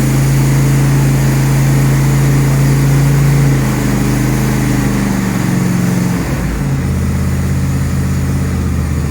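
John Deere S160 lawn tractor's 24 hp engine running just after its first start, with the choke set. Its speed drops in steps over a few seconds past the middle of the clip, then settles into a steady low idle.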